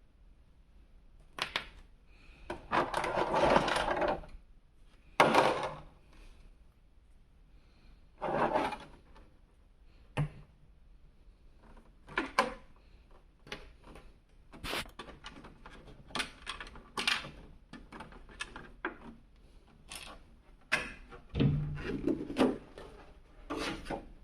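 Hands handling an S.H. Figuarts Thanos action figure and its packaging: irregular plastic clicks and taps, with several longer rustles.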